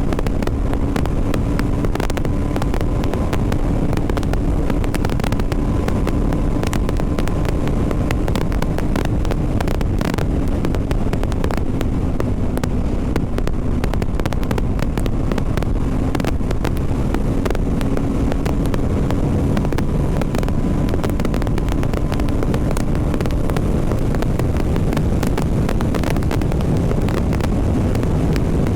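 BMW G 310 RR's single-cylinder engine running at a fairly steady riding speed, heard with wind noise buffeting the helmet microphone.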